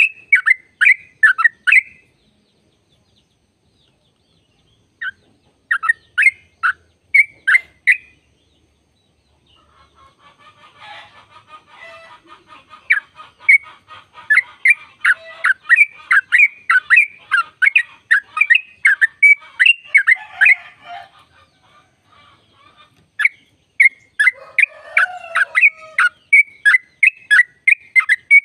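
Yellow-vented bulbul singing a fast 'ropel' song of sharp, repeated chirping notes at about three or four a second. It comes in runs of a few seconds with short silent gaps between them. From about ten seconds in, fainter chattering notes sound beneath the main song.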